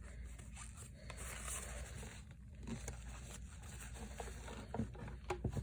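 Faint scraping and rustling of small items being handled, with a few light taps near the end.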